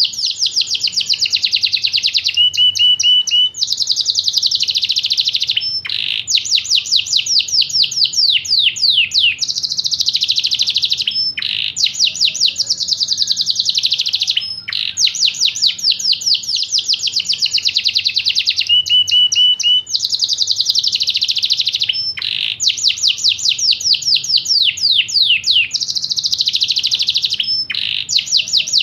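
Yorkshire canary singing continuously: phrases of rapid, falling trilled notes run into dense buzzy rolls, with brief pauses between phrases. This is the kind of song played as a lure to get a silent canary to start singing.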